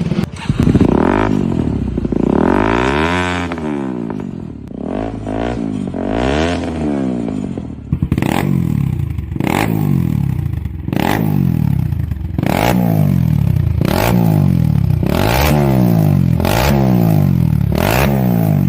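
Bajaj Pulsar NS200 single-cylinder engine revved through an aftermarket exhaust, its pitch rising and falling with each throttle blip. After a change in tone about eight seconds in, which may mark a switch to a different exhaust, it goes on as quick regular blips about one every second or so.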